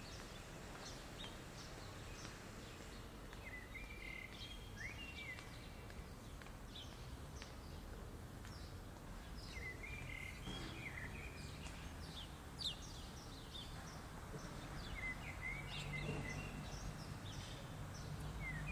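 Small songbirds twittering: clusters of short, high chirps and quick falling notes every few seconds, over a low, steady background rumble.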